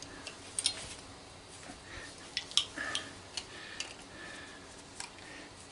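Scattered light clicks and clinks of metal tools and scrap being handled, a dozen or so irregular taps.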